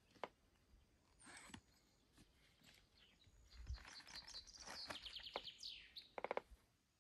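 Faint songbird song: high thin whistled notes, then a quick run of high notes and a trill in the second half. A sharp click sounds about a quarter second in.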